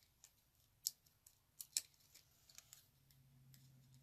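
Card stock and paper pieces being handled and set down on a card: a few faint, sharp clicks and taps, two of them in quick succession near the middle.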